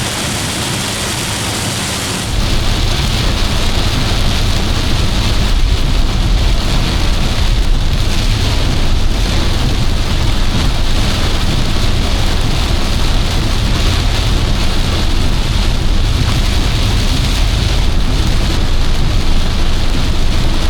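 Torrential rain pounding on a moving car's roof and windshield, over the car's road and engine noise, heard from inside the cabin. About two seconds in the sound gets louder, and a steady deep rumble is added that holds from then on.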